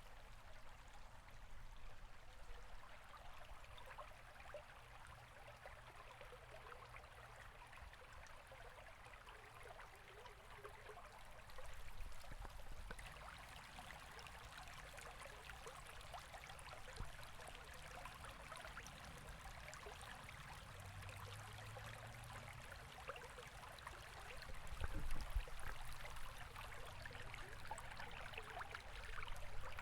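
River water flowing and burbling steadily, with a few faint low thuds.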